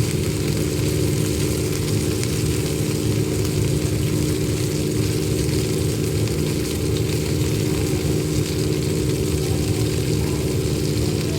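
A steady motor-like hum: a low drone with a few constant tones under an even hiss, unchanging throughout.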